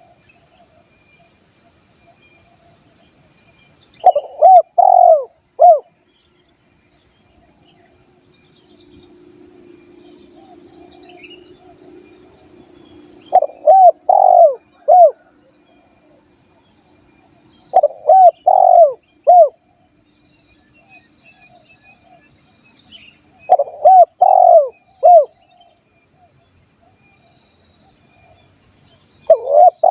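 Spotted dove cooing: five phrases of three or four coos each, spaced several seconds apart. Behind them runs a steady high insect buzz.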